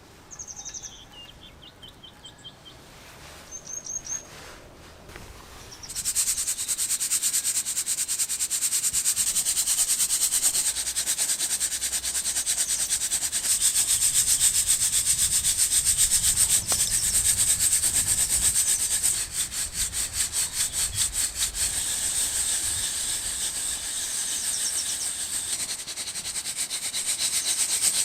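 Coffee beans rattling in a handheld mesh drum roaster shaken over a campfire: a dense, steady rattle of many small clicks that starts about six seconds in. Before it, a few high bird chirps.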